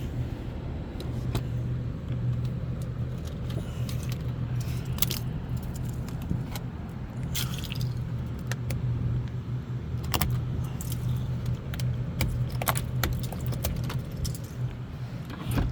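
A car engine running steadily, with scattered clinks and ticks of broken ice.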